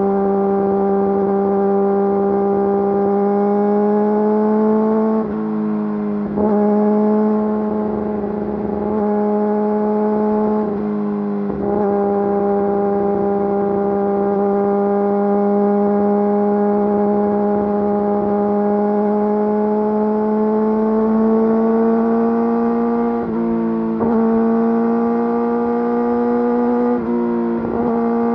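Yamaha YZF-R6's inline-four engine through an Akrapovič full exhaust system, running at steady high revs under way. The pitch creeps slowly upward, with a few brief drops where it dips and then comes back up.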